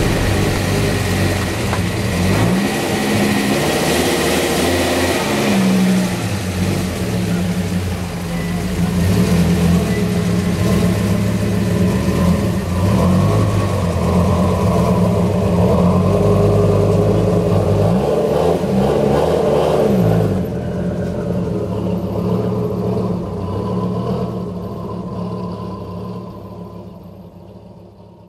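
Twin-turbocharged Dodge Viper V10 engine revving up and dropping back several times, then fading out near the end.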